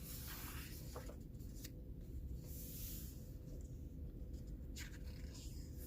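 Paper pages of a thick coloring book being turned and handled: two soft rustling slides of paper and a few light ticks, over a steady low hum.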